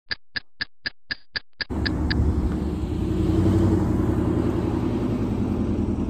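A quick run of about nine short electronic beeps, about four a second, then a motor vehicle's engine rumble that sets in under them less than two seconds in and carries on steadily.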